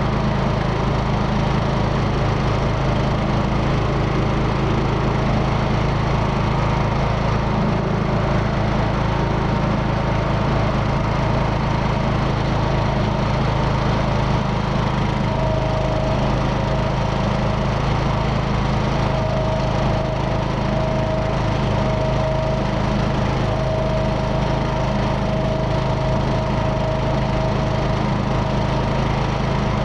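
Riding lawn mower's small engine running steadily at mowing speed, blades cutting grass, through a replacement muffler. A faint steady whine comes and goes in the second half.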